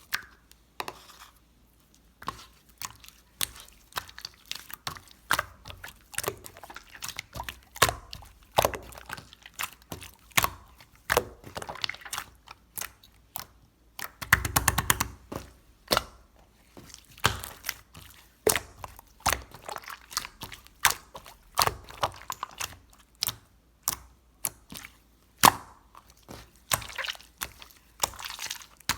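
Hands squishing, poking and stretching sherbet slime, giving irregular sharp clicks and wet pops, with a short burst of dense crackling about halfway through.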